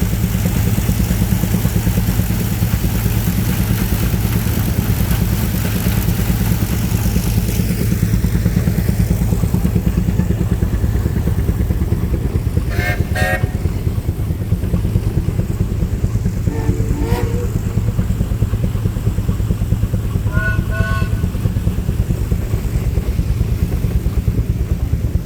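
An engine running steadily close by, with a fast, even low pulsing that does not change speed. A few short pitched sounds rise faintly over it about halfway through and again near the end.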